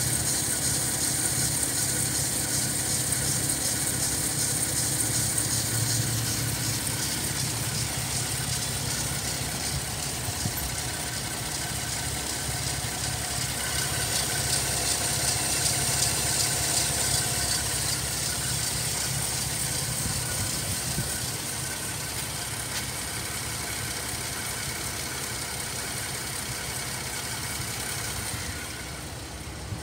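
Holden Commodore 3.6-litre V6 engine idling steadily, heard up close from the open engine bay. It gets a little quieter near the end.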